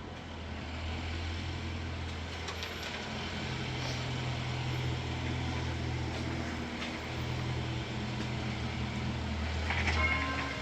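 Car engine drone and road noise, heard from inside the cabin, the engine note shifting pitch a few times as the car drives on. Music begins near the end.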